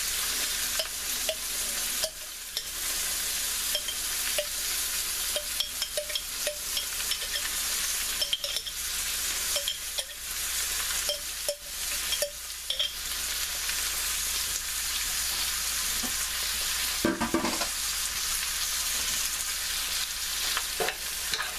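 Tofu, onions, carrots and potatoes frying in oil in a stainless steel pan: a steady sizzle, with scattered light clicks and knocks throughout.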